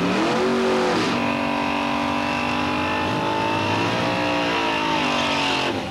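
Hot-rod pickup truck's engine revving up and held at high revs through a burnout, with the rear tyre spinning on the pavement. The sound cuts off suddenly near the end.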